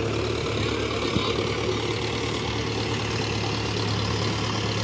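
A heavy diesel engine running steadily at a low, even idle.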